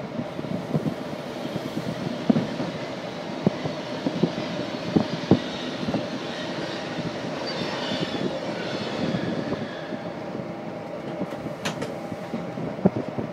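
Running noise of a passenger train heard from on board: a steady rumble of wheels on rail with irregular sharp knocks as the wheels cross rail joints and points. A higher rushing swells in the middle while coaches pass close by on the next track.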